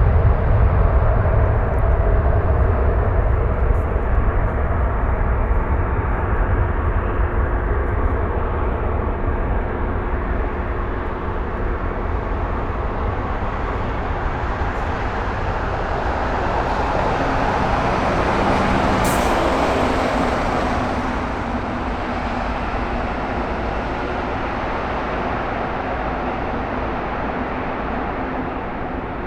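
Jet airliner engines rumbling, slowly fading, with a brief swell in the noise about two-thirds of the way through.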